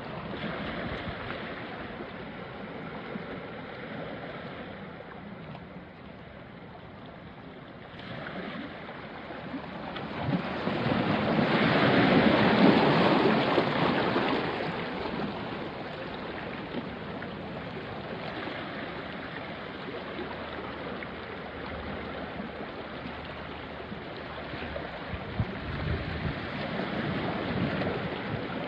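Small sea waves washing onto a rocky shore, with one louder wash building and fading about halfway through. There is light wind on the microphone.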